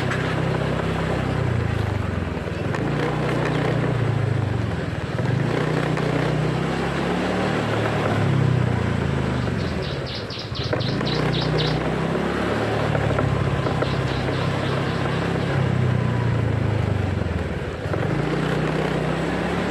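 Motorcycle engine running while riding, its pitch rising and falling repeatedly, over road and wind noise. About halfway through there is a brief run of rapid, high-pitched ticking.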